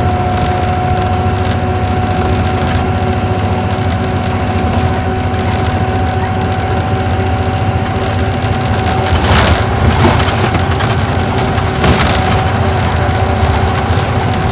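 Isuzu Gala coach with a V-type engine under way, heard from the passenger cabin: a steady low engine drone with a constant high whine above it, and a light rattle throughout. Louder rattling jolts come about nine seconds in and again about twelve seconds in.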